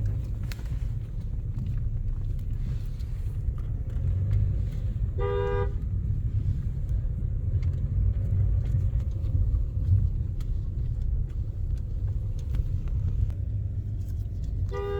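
Steady low rumble of a moving car's engine and road noise, with a short car-horn toot about five seconds in and another right at the end.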